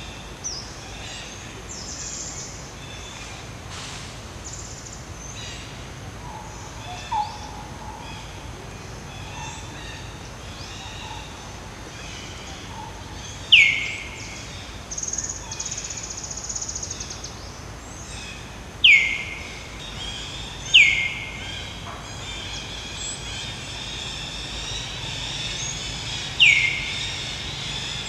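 Birds calling and chirping, with many short high chirps and trills. The loudest sounds are four sharp calls that each slide quickly downward in pitch, the first about halfway through and three more near the end.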